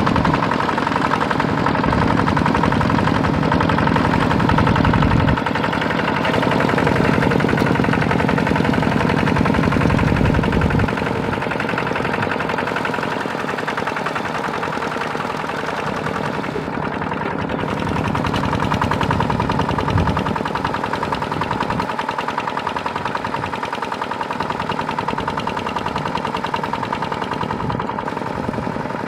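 Tractor engine running steadily with a fast, even firing beat; its deep low end drops away about eleven seconds in and it runs lighter after that.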